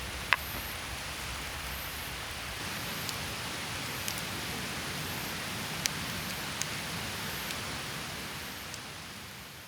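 Wood campfire crackling: a steady hiss with a few sharp, separate pops, fading out near the end.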